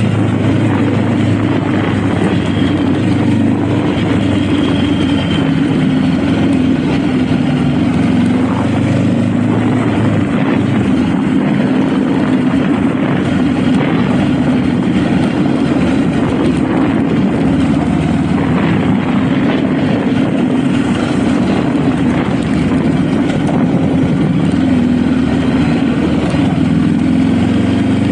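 Honda Rebel motorcycle engine running steadily under way, with wind and road rush over the microphone; the engine note shifts about ten seconds in.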